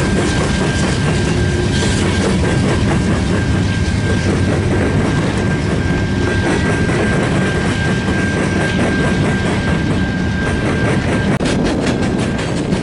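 Freight train diesel locomotives, a Norfolk Southern GE C44-9W leading, passing close by with their engines running steadily over a loud rumble and a steady high whine. About a second before the end, covered hopper cars rolling past take over, with a quick regular clatter of wheels over rail joints.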